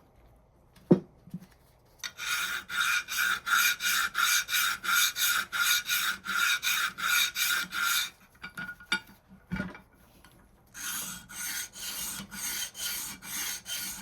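Hand file rasping back and forth over a metal edge of an old Reed bench vise, in quick even strokes about two or three a second, dressing a beat-up edge smooth. There is a sharp knock about a second in, and a pause with more knocks between the two runs of strokes.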